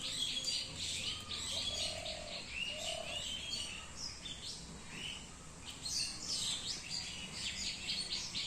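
Many small birds chirping and twittering over one another in a dense chorus, with two short lower-pitched notes about two and three seconds in.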